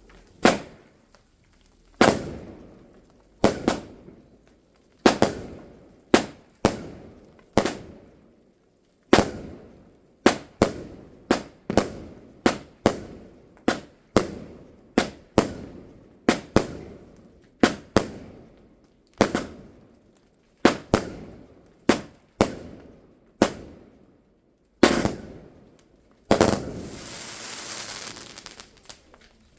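Fireworks going off: about two dozen sharp bangs, roughly one every second or so at an uneven pace, each echoing briefly. Near the end a last bang is followed by a couple of seconds of hissing crackle.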